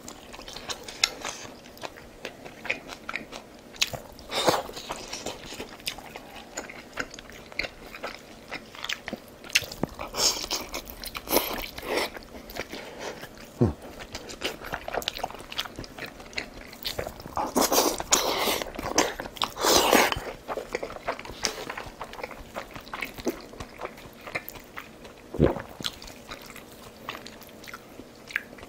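Close-miked eating: a person biting and chewing food with crunching and mouth noises, in several louder spells.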